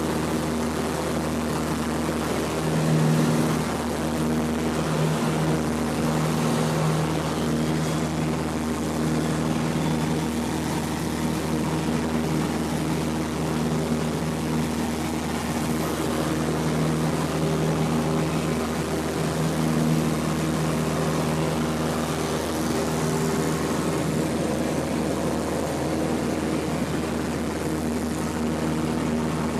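Cessna 172P's four-cylinder Lycoming engine and propeller running steadily, a constant drone with no change in power.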